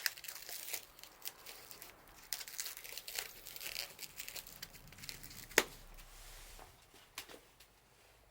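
Bonfire burning: dense crackling and rustling, then sparser crackles with one sharp loud pop about five and a half seconds in.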